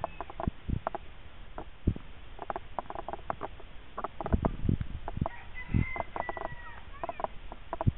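Irregular knocks and rattles from a bike jolting over rough ground, with a rooster crowing once, about five seconds in.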